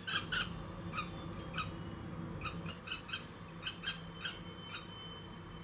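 A small bird giving short, repeated squawking calls while it is held down to be dosed with medicine, quick at first and then slowing to about two calls a second.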